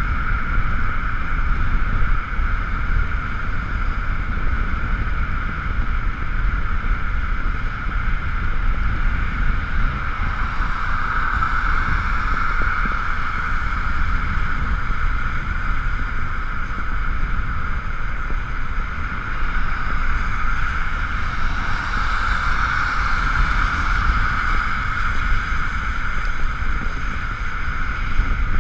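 Wind buffeting the microphone while riding an Ekoway ML5000 electric scooter, over a steady whine from its electric motor. The whine swells twice, about 12 seconds in and again about 22 seconds in.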